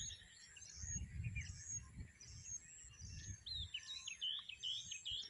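Small birds chirping outdoors: many short, quick calls, busiest from about three seconds in, over a low, uneven rumble.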